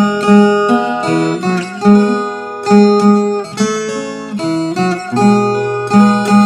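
Viola caipira, the Brazilian ten-string folk guitar, plucking a melody of ringing notes that die away between strokes, over bass notes.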